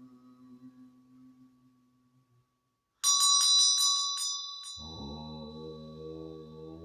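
A held keyboard chord fades out, then after a short silence a small bell is rung rapidly several times and keeps ringing, and a low steady drone with many overtones comes in beneath it near the end.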